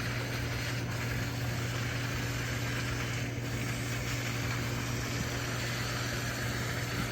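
Pressure-washing pump running steadily with a low electric hum, water spray hissing onto an air-conditioner condenser coil during a coil cleaning.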